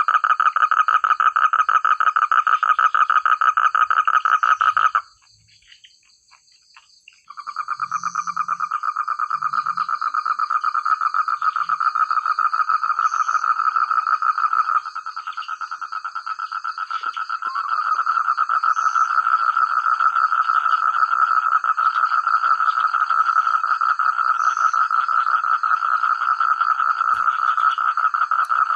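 Chorus of rice-field frogs croaking in a dense, rapid pulsing. It breaks off abruptly about five seconds in, falls nearly silent for about two seconds, then starts again and gets louder later on.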